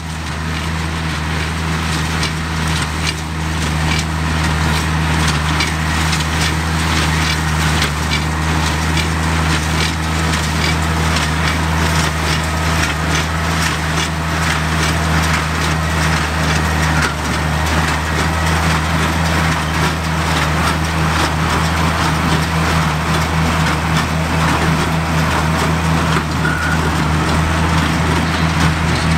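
Oliver 770 tractor's 216-cubic-inch six-cylinder engine running steadily under load, powering a Sperry-New Holland 276 Hayliner small square baler, whose plunger packing hay adds a steady run of crunching and clicking strokes.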